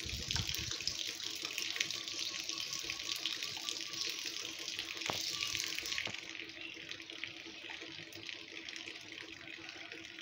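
Light rain falling: a steady hiss dotted with small drop ticks, turning a little softer about six seconds in.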